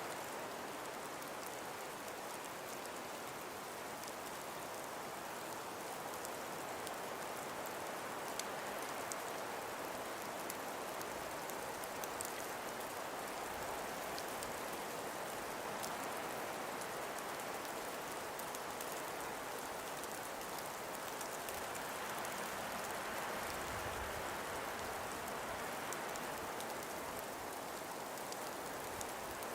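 Steady, even outdoor hiss of wind or rain noise, with faint scattered ticks throughout and a brief low rumble a little after twenty seconds.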